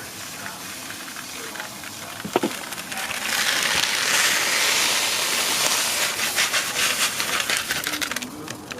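Dried mung dal being poured and scattered out of its packet: a dense rattling hiss of small hard pulses that starts about three seconds in and cuts off abruptly near the end. A short sharp sound comes a couple of seconds in.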